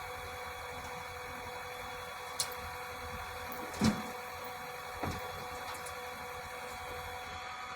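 Three separate knocks, the middle one the loudest, from tools and parts being handled while a Honda 140cc engine is taken apart, over a steady background hum.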